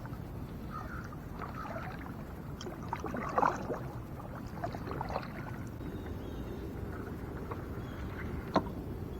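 Water splashing and dripping around a kayak, with light knocks against the hull: a small cluster about three seconds in and one sharp knock near the end.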